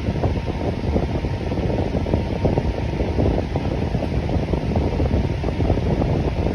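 Electric fan running steadily, a continuous rush of moving air with a rapid flutter in the low end.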